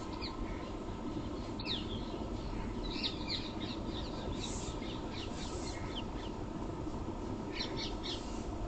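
Small birds chirping in short, scattered bursts of quick falling notes over a steady background hum.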